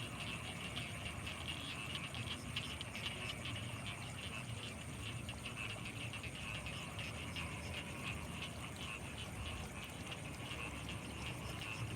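Dense chorus of frogs calling in rapid overlapping croaks and clicks, with a thin steady high-pitched whine above it and a low steady rumble underneath.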